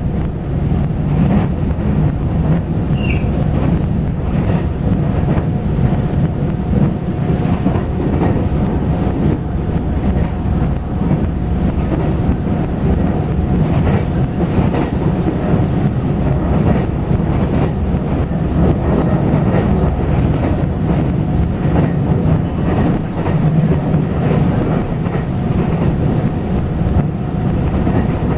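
Taiwan Railway local express train running along the track, heard from on board: a steady, loud low rumble with faint wheel clicks over the rail joints and a faint steady hum. A brief high squeak sounds about three seconds in.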